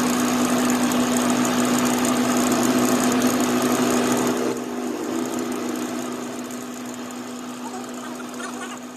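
Workshop machine motor running steadily with a constant hum, then dropping sharply about four and a half seconds in and fading away as it runs down.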